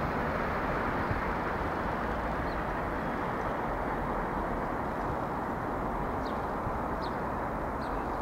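Irish Rail 22000 class diesel multiple unit running away along the track, a steady rumble of engines and wheels that eases off only slightly.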